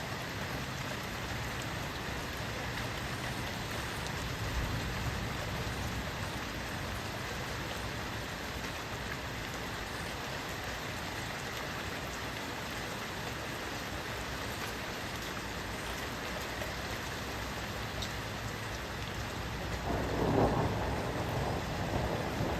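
Steady rain falling, with a low rumble of thunder swelling up near the end.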